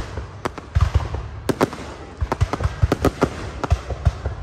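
Aerial fireworks display: shells bursting in a fast, irregular string of sharp bangs, several a second.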